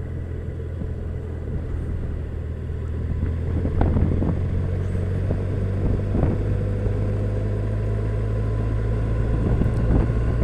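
Yamaha FJR1300's inline-four engine running at a steady cruise, with road and wind noise, getting a little louder about four seconds in. Two brief knocks come through, near four and six seconds in.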